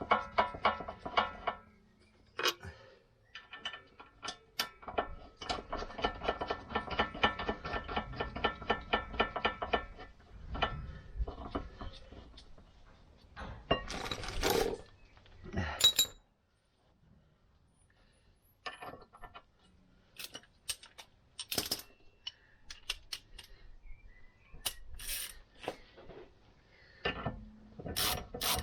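Ratchet spanner clicking rapidly in long runs as the brake caliper carrier bolts are wound in, with a few metallic clanks and knocks of tools between the runs.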